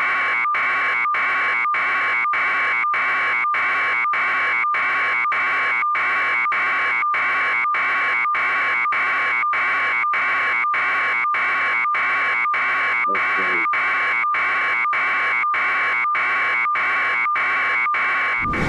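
An electronic alarm buzzer beeping steadily, about two harsh beeps a second, then cutting off abruptly at the end.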